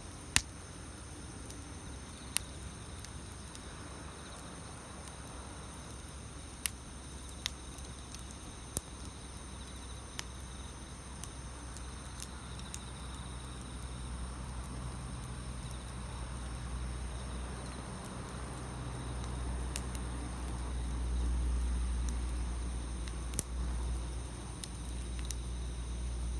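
Wood campfire crackling, with sharp pops every few seconds over a low rumble that swells in the second half. A steady high insect drone runs underneath.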